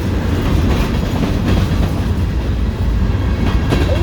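Freight train cars rolling past: a steady, loud rumble of steel wheels on rail, with repeated wheel clacks over the rail joints.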